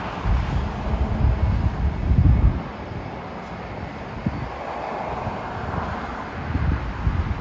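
Jet airliner engine noise, with gusts of wind buffeting the microphone in the first two and a half seconds and again near the end.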